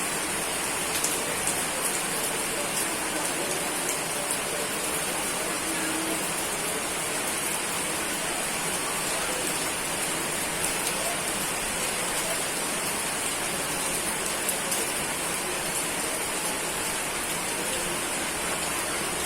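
Steady rain falling: an even hiss with scattered sharper ticks of single drops striking a surface.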